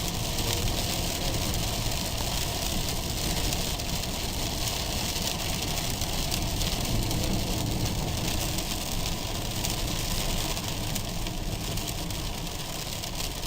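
Steady engine and road noise of a moving vehicle, a low rumble with an even hiss over it.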